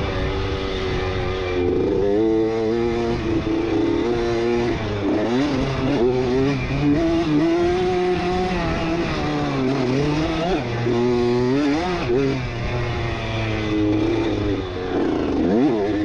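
1989 Honda CR80's 80cc two-stroke single-cylinder engine revving up and dropping off again and again as it is ridden hard through corners and straights on a motocross track, heard from a helmet camera.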